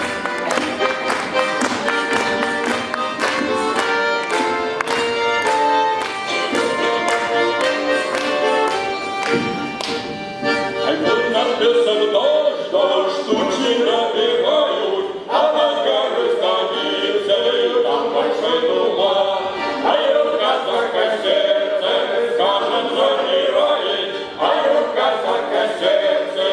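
Cossack song ensemble performing live: an instrumental introduction of held chords over a steady beat, then, about eleven seconds in, the ensemble's voices come in singing together over the accompaniment.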